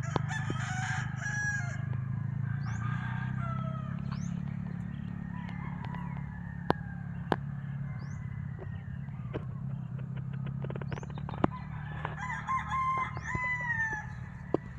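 Gamefowl roosters crowing, one crow at the start and another about twelve seconds in, with clucking, a few sharp clicks and small-bird chirps between, over a steady low hum.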